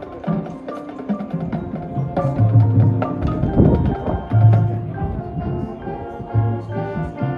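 High school marching band playing, with percussion strikes and pitched mallet-percussion notes to the fore over sustained low bass notes.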